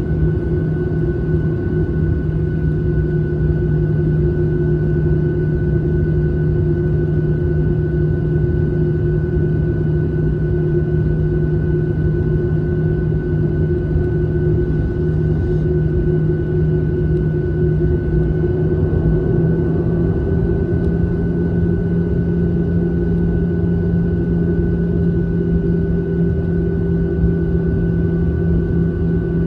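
Steady airliner cabin drone in flight: engine noise and airflow with a constant low rumble and a few held hum tones.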